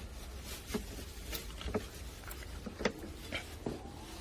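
Faint steady low rumble with scattered light ticks and clicks.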